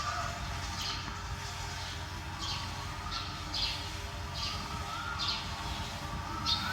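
A small bird chirping: a string of short, high chirps, roughly one a second, over a steady low background hum.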